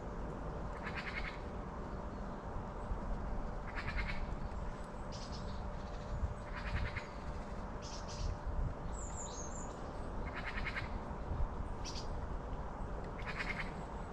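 A small songbird calling with a series of short, harsh rattling calls a few seconds apart, with a few thin high chirps near the middle.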